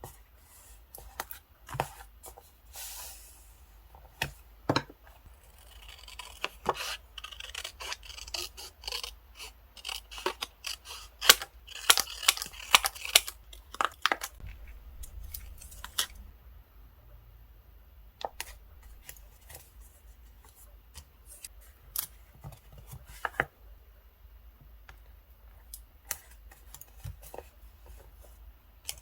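Close-up paper crafting sounds: scattered taps and clicks of paper and stickers being handled, with a denser stretch of scratchy rustling, peeling or tearing paper in the middle.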